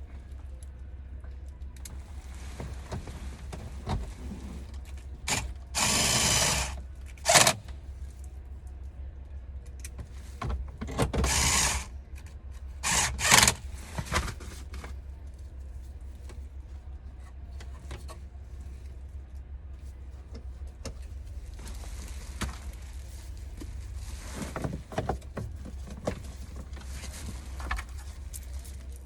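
Hand tools working on metal parts in short bursts of clicking and scraping, loudest a few seconds in and again around the middle, over a steady low hum.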